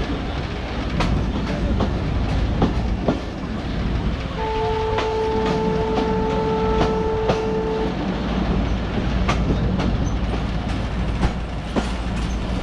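Bangladesh Railway local train running, with a steady rumble and the irregular clack of wheels over rail joints. A bit over four seconds in, the train horn sounds one long, steady, single-note blast lasting about three and a half seconds.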